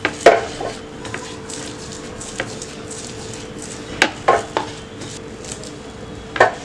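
Knocks of a cling-wrapped log of cookie dough being pressed and tapped down on a hard kitchen surface to firm and level it: two at the start, three about four seconds in, one near the end. A faint steady hum sits underneath.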